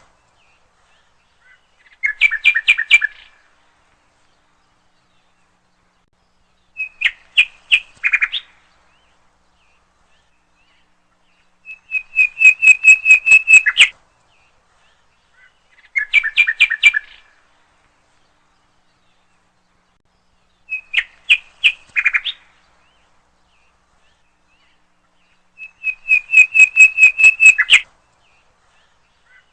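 A songbird singing in short phrases, each a quick run of repeated bright whistled notes, six phrases a few seconds apart with silence between.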